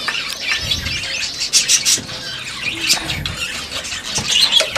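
A chorus of small cage birds, budgerigars and zebra finches, chirping and calling over one another with many short, high calls.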